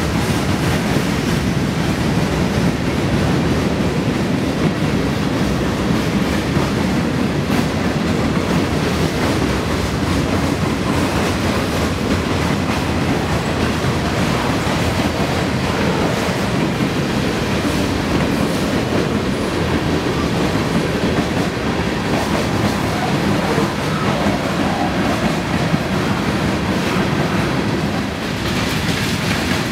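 Freight cars rolling past: a steady, loud rumble of steel wheels on rail, dipping briefly near the end.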